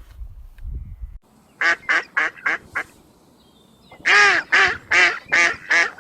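An animal calling: a quick run of five short calls, then a louder run of about six more, after a low rumble in the first second.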